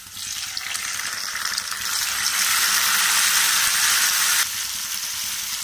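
Onions, garlic and freshly added tomato wedges sizzling in hot oil in a kadai, a steady hiss that grows louder about two seconds in and drops off abruptly about four and a half seconds in.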